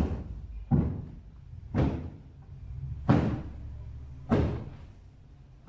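A run of heavy thuds, about one every second or so, each ringing out briefly.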